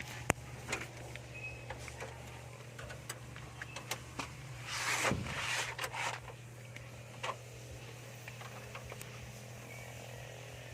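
A steady low hum with scattered light clicks and knocks, as of tools handled on metal, and a brief hissing rush about five seconds in.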